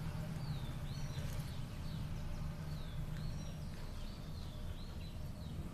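Birds calling outdoors, a string of short swooping whistled notes, over a steady low hum.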